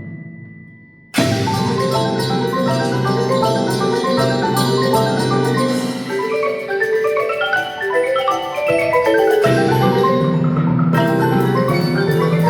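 Percussion ensemble performing: ringing notes die away into a brief hush, then about a second in the whole ensemble comes in loudly at once with a fast stream of short pitched struck notes. Lower notes join again near the end.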